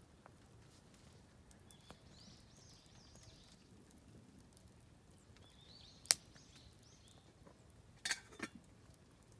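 Oak firewood burning in a campfire brazier, crackling with a few sharp pops: the loudest about six seconds in and a quick cluster near the end. Birds chirp in the background twice.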